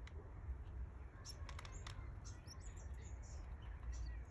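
Canary chicks cheeping: a scatter of short, high, thin peeps, with a few sharp clicks about a second and a half in, over a steady low hum.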